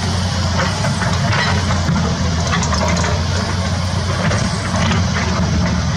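Heavy construction machinery's diesel engine running steadily, with scattered light clattering over the low rumble.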